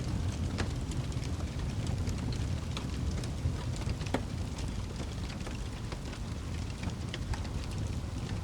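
Wood fire crackling: a steady low rumble of the flames with frequent sharp pops and snaps scattered irregularly throughout.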